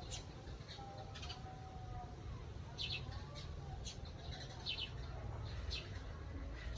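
Small songbirds chirping: short, high calls at irregular intervals, over a steady low rumble.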